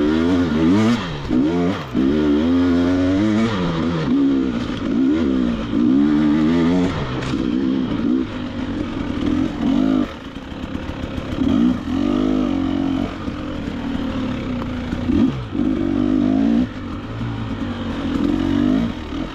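KTM 300 XCW two-stroke dirt bike engine revving up and down over and over with the throttle on a trail ride, changing pitch quickly in the first half and running steadier in the second.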